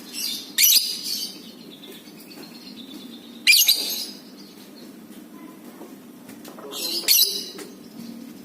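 Lovebird giving three short bursts of shrill, harsh chattering calls, about three seconds apart, over a steady low hum.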